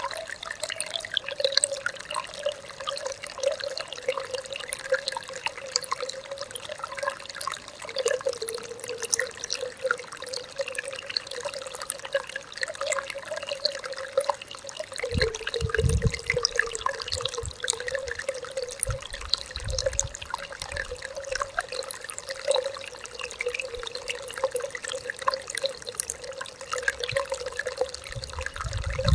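Small stream flowing and babbling steadily, with a constant gurgle and many little trickling splashes. A few brief low rumbles come about halfway through and again at the end.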